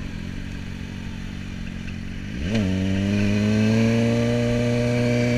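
Sport motorcycle engine running steadily at a low pitch, then about halfway through the revs jump sharply and drop back with a gear change. After that the engine pulls louder, its pitch climbing slowly as it accelerates.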